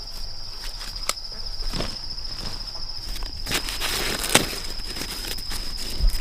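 Insects trilling in one steady, high-pitched tone, with scattered footsteps or knocks, the clearest about a second in and at about three and a half and four and a half seconds.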